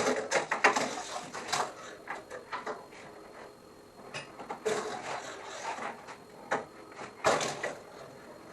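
Irregular knocks, clatters and scrapes of boards and tools being handled on a workbench. The loudest knocks come at the very start and again about seven seconds in.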